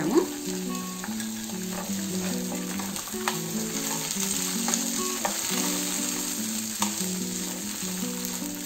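Boiled chickpeas sizzling steadily in hot oil with cumin seeds in a nonstick frying pan. A steel spoon stirs them, with a few sharp clinks against the pan.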